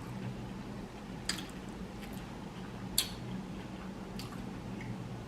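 Close-miked eating: wet mouth sounds and a few sharp clicks and smacks as food is chewed, the strongest about a second in and again near the middle, over a steady low hum.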